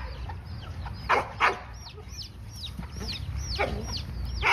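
Birds calling: a steady run of short, high chirps that fall in pitch, about three a second, with four louder, harsher calls among them.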